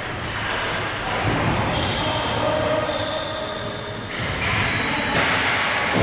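Shoes squeaking on a hard court floor during play, short squeals at several pitches over the noise of the game.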